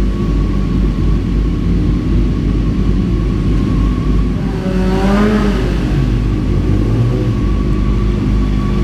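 Motorcycle engines running with a steady low rumble. About five seconds in, one engine note rises and falls once, as a bike is revved or rides past.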